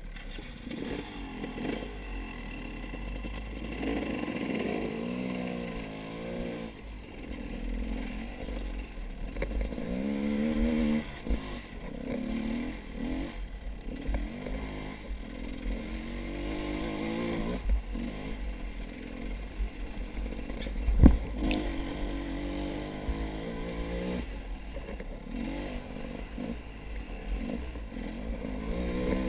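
Small engine running and revving up and down over and over, as on a motorcycle being ridden over rough ground. There is a sharp knock about 21 seconds in.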